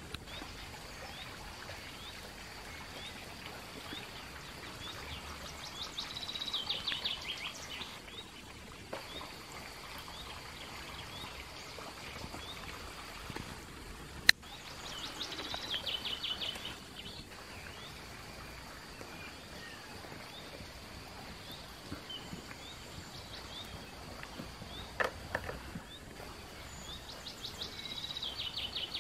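A songbird singing a short trilled phrase that falls in pitch, three times about ten seconds apart, over a faint steady high whine and outdoor background. A single sharp click about halfway through, with a couple of smaller knocks later.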